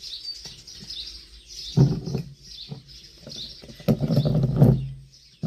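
A small bird chirping over and over, short high chirps about twice a second. Twice, about two seconds in and again around four seconds in, louder rustling and knocking noises rise over the chirps.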